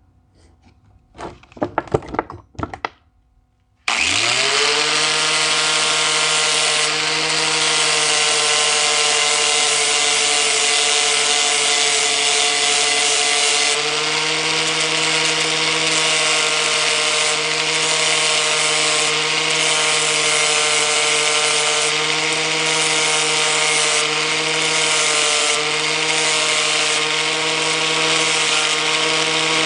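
An electric angle grinder switches on about four seconds in and runs steadily, giving a high motor whine with a hiss over it as it works on metal. A few short knocks come just before it starts.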